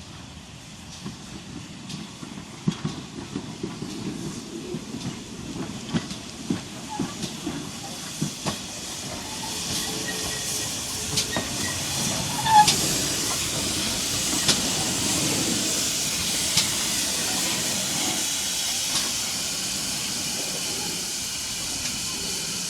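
Steam locomotive: a series of clanks and knocks for the first several seconds, then a loud steady hiss of escaping steam building from about ten seconds in.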